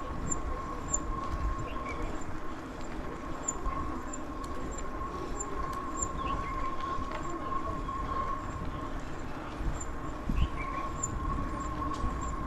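Mountain bike in motion: a steady high-pitched hum over a low rumble.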